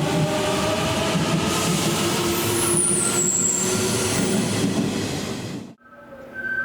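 Kintetsu commuter train moving through the station: steady running noise with several held tones and high squeals that glide downward about three seconds in. The sound cuts off abruptly near the end, leaving faint steady tones.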